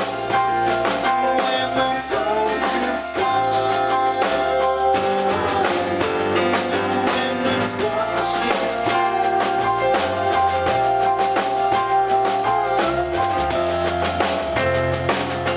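Rock band playing live: a drum kit keeping a steady beat under bass guitar, electric guitar and sustained keyboard chords.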